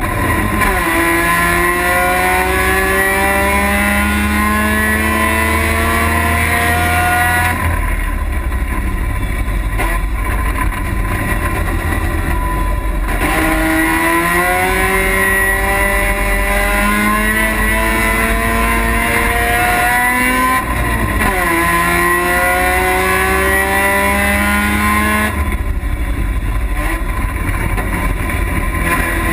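Race car engine heard from inside the stripped, caged cabin, pulling hard with its pitch climbing in long rising sweeps. The driver lifts off about a quarter of the way in and again near the end, leaving a low rumble, and there is a quick gear change about two-thirds of the way through before it climbs again.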